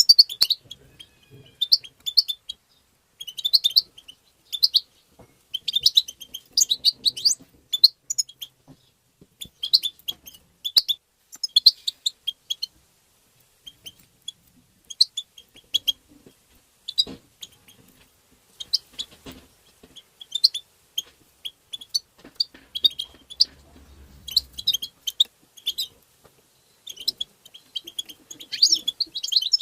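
European goldfinch twittering: clusters of rapid, high chirping calls every second or two, separated by short pauses.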